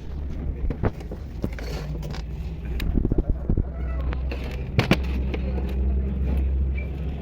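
Engine running with a steady low hum, with scattered sharp metallic clicks and knocks, a quick cluster of them about three seconds in.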